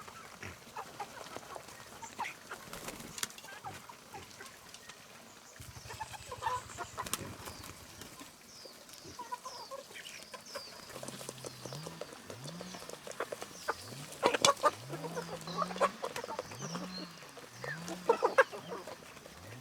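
Chickens clucking, with high chirps and scattered clicks and a few sharper knocks in the second half.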